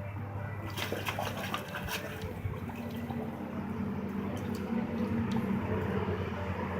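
Water splashing and sloshing in a dog pool, over a steady low hum.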